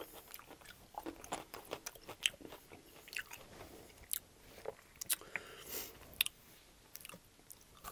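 Close-up mouth sounds of someone chewing raw carrot sticks: crisp, irregular crunches.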